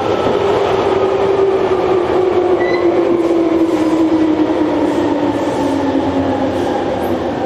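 Running noise inside a Hankyu 3300 series electric train car: a steady rumble with the traction motor and gear whine falling slowly in pitch as the train slows down.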